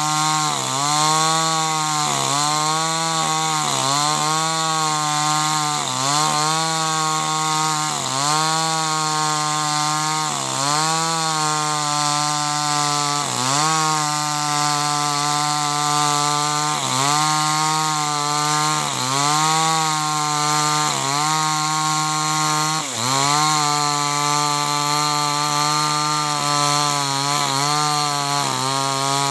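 Two-stroke chainsaw running at high revs while cutting wood. The engine note sags briefly under load about every one to two seconds and picks back up each time.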